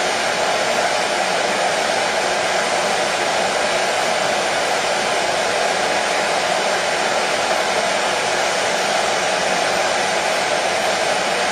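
Hair dryer running steadily: an even, unchanging blowing hiss with a whirr centred in the middle range.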